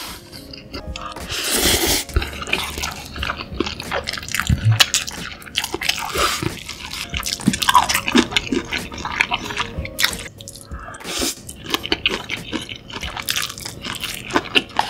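Close-miked eating sounds: a man chewing spicy instant noodles, a steady run of short, sticky mouth clicks and smacks.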